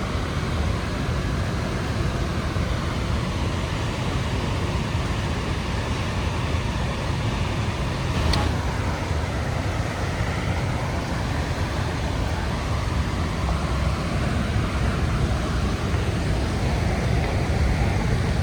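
Steady roar of the Rhine Falls, a deep even rush of falling water, with a single brief click about eight seconds in.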